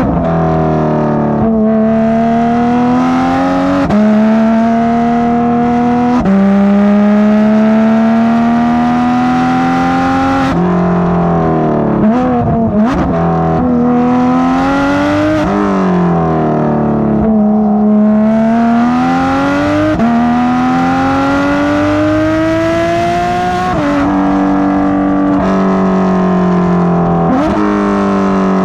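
Porsche 991.2 GT3 RS's 4.0-litre flat-six, on a Dundon crack pipe and street headers, pulling hard up through the gears. Its pitch climbs in each gear and drops sharply at every upshift, with a quick run of rev-matched blips on downshifts about halfway through.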